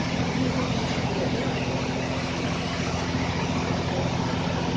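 Automatic car wash machine running: a steady low motor hum under a continuous hiss.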